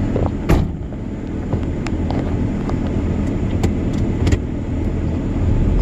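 A vehicle driving along with steady low engine and road rumble. There are several sharp knocks and clicks, the loudest about half a second in.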